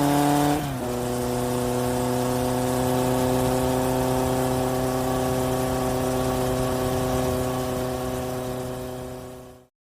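A truck engine running at a steady pitch, easing off slightly about half a second in, then fading out just before the end.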